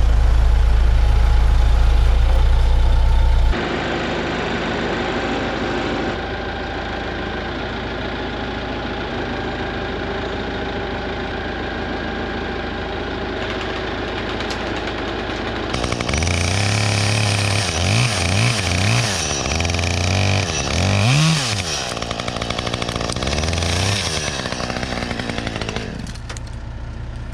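Engines running: a loud low rumble at first, then a steady run, and from about halfway an engine revving up and down repeatedly.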